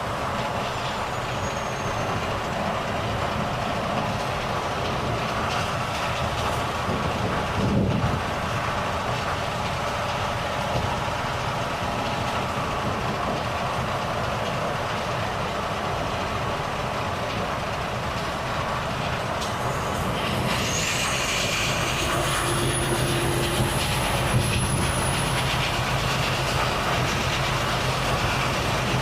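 Volvo FH truck's diesel engine running as the truck drives, with steady road noise. About eight seconds in there is a short thump, and from about twenty seconds in a high whistle rises and then holds for a few seconds.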